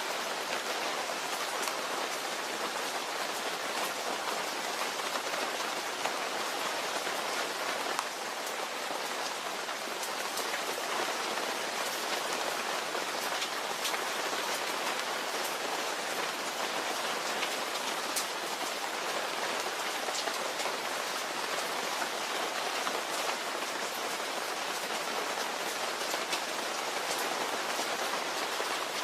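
Steady rain falling: an even hiss sprinkled with many small drop ticks.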